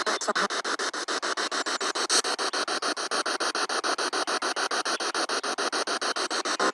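Spirit box sweeping through radio stations: static and fragments of broadcast sound chopped into rapid, evenly spaced pulses, several a second, without a break.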